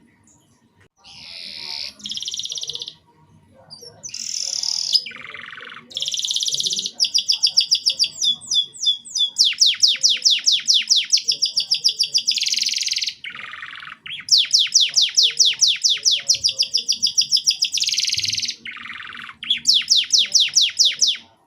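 Domestic canary singing a long, high, clear song: rapid trills of the same note repeated many times a second, strung into phrases a few seconds long and broken by short buzzy notes that drop in pitch.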